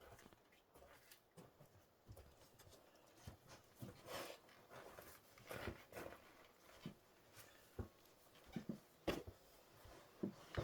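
Faint, irregular knocks and clicks, coming more often from about four seconds in.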